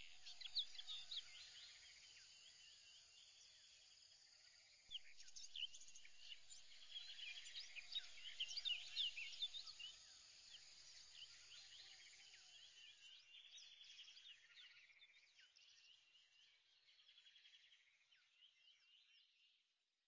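Faint birdsong: many small birds chirping with quick high notes and trills, swelling about five seconds in and fading away toward the end.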